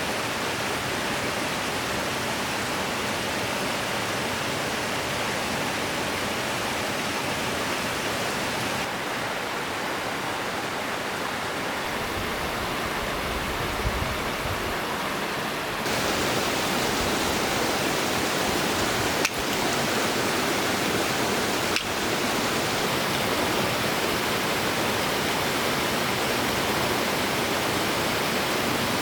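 A mountain stream rushing steadily, with its tone shifting abruptly a few times between shots, and two sharp clicks near the middle.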